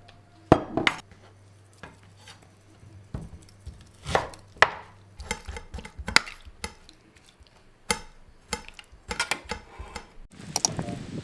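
Irregular knocks and clicks of objects being handled and set down, a dozen or so spread unevenly with short quiet gaps between.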